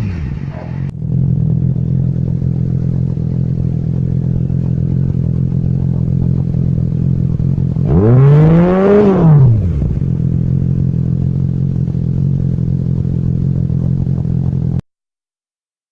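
Yamaha YZF-R6 (RJ15) inline-four engine idling steadily, with one quick rev about eight seconds in that rises and falls over a second and a half. The sound cuts off suddenly near the end.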